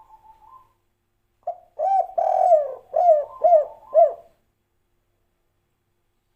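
Spotted dove (tekukur) cooing its 'kuk 3' song: a faint soft coo trails off at the start, then about a second and a half in comes a loud phrase of low coos, a long drawn note followed by three short falling coos about half a second apart.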